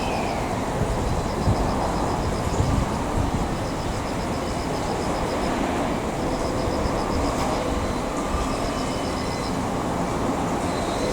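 Railway cars being shunted slowly by a switcher, with a steady rumble of wheels and running gear. A short squeal falls away at the start. A high, fast ticking comes in short runs of about a second, several times.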